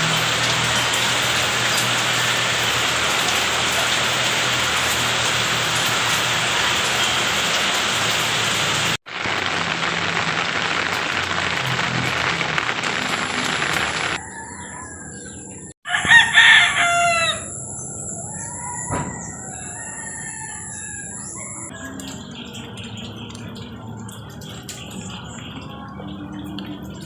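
A steady rushing noise for about the first fourteen seconds, then a rooster crows once, loudly, about sixteen seconds in, followed by faint bird chirps.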